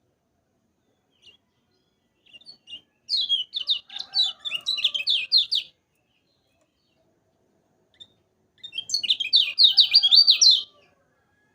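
A kecial kuning songbird singing two bursts of rapid, scratchy chirping, each about two to three seconds long, with a pause between them.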